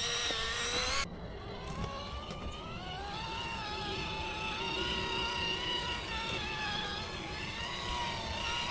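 Electric motor and gearbox of an RC rock crawler whining steadily as it crawls, the pitch wavering slightly with the throttle. The sound drops and changes abruptly about a second in.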